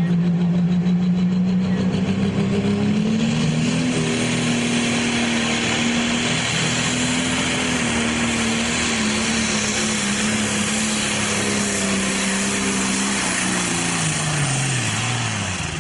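Pro Stock pulling tractor's turbocharged diesel engine under full load during a pull. Its note climbs in pitch a few seconds in and holds steady, then drops away near the end as the engine is brought down.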